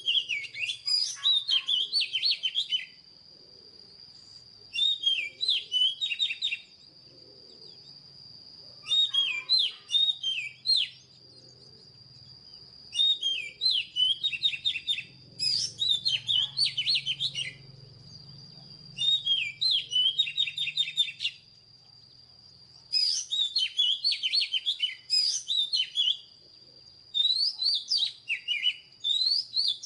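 Oriental magpie-robin singing: repeated phrases of fast, sweet, gliding whistled notes, each a couple of seconds long, with short pauses between them. A thin, steady high-pitched tone runs underneath.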